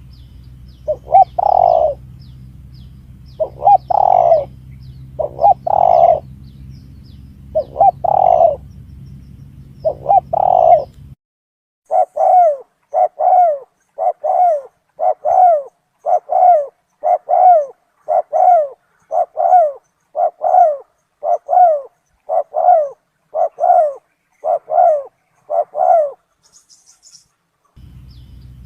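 Spotted dove (tekukur) cooing, recorded as a trapping lure call. First a few spaced calls over a steady low hum, then after a short break a quick run of about twenty short coos, roughly one and a half a second.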